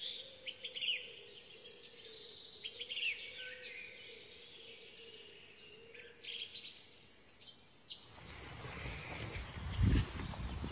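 Wild birds chirping, short arching calls repeated over a faint steady hum. About eight seconds in, rustling handling noise starts, with a thump near the end.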